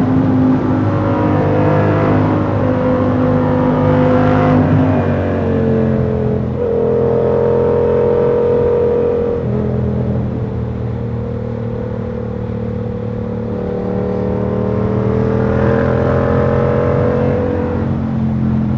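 Yamaha R7's 689 cc parallel-twin engine through a KO Lightning aftermarket exhaust while riding. The engine pitch shifts down in steps a few times, then climbs slowly under acceleration and drops again near the end.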